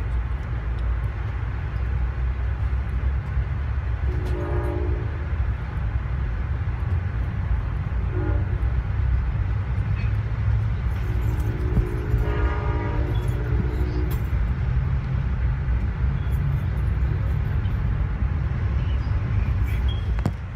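Steady low rumble of a passenger train running, heard from inside the coach. The locomotive horn sounds a brief blast about four seconds in, a short one about eight seconds in, and a long one from about eleven to fourteen seconds, the horn pattern sounded on approaching a grade crossing.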